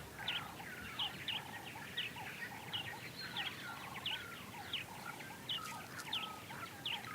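Birds calling in a steady repeating chorus, short sharp notes and buzzy lower notes about twice a second.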